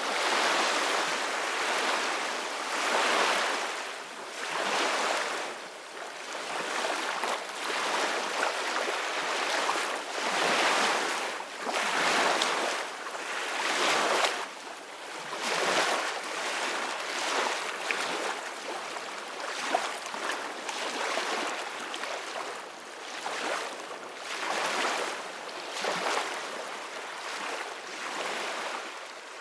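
Ocean waves breaking and washing in one after another, the hiss of surf swelling and falling away every couple of seconds.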